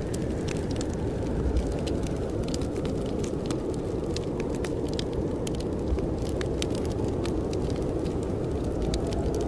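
A wood fire crackling with frequent sharp pops over the steady low rush of blizzard wind outside.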